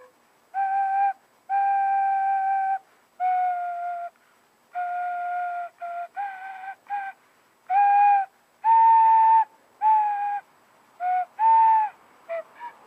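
Recorder played slowly: a simple melody of about a dozen separate held notes with short gaps between them, the last few notes quicker and shorter.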